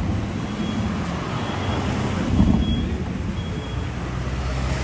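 Car engine running at low speed close by, a steady low rumble that swells slightly about halfway through. Faint short high beeps sound roughly once a second.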